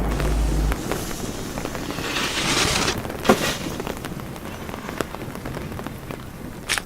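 Rain: a steady hiss with scattered drop ticks. A low rumble dies away under a second in, and there is one sharp tick about three seconds in.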